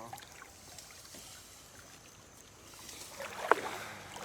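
Faint river water running, with a louder rustling stretch near the end and one sharp click about three and a half seconds in.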